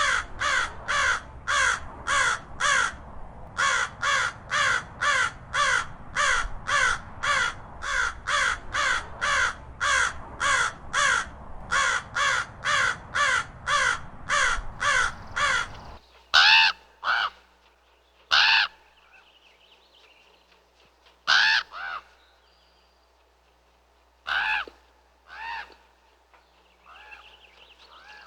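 Raven calling: a fast, even run of calls, about two or three a second, with a short break near three seconds. About sixteen seconds in, the background changes and louder calls follow singly or in pairs, a few seconds apart.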